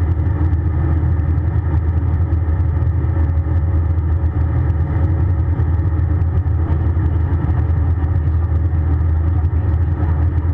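Airbus A320 cabin noise: a steady low rumble of engines and airflow heard from inside the passenger cabin, with a few faint steady tones above it.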